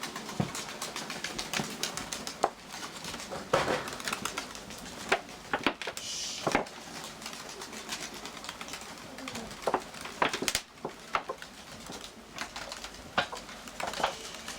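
Nikolaev pigeons cooing in their loft, with many irregular sharp taps and clicks.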